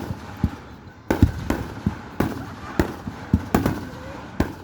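Fireworks display bursting overhead: an irregular run of about a dozen sharp bangs, several of them deep booms, one after another with barely a pause.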